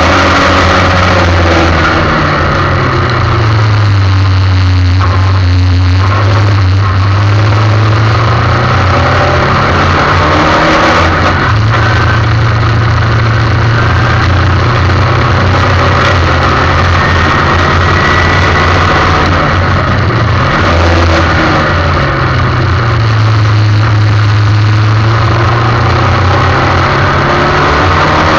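Formula 1600 single-seater racing car engine running hard at racing speed, its note falling and rising through the gears and dropping under braking, with a brief break in the note about eleven seconds in.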